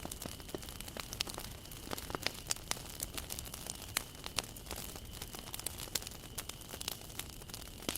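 Wood fire crackling, with irregular sharp snaps and pops over a soft steady hiss.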